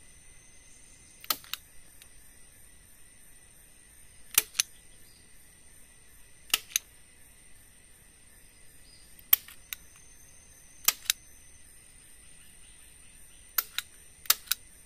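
A steady high drone of forest insects, with sharp short clicks or knocks, mostly in pairs, every two to three seconds on top of it.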